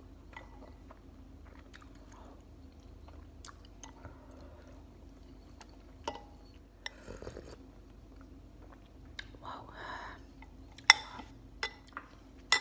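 A person chewing spicy chicken ramen noodles, with soft wet mouth sounds. Near the end come a few sharp clicks, the loudest about eleven seconds in.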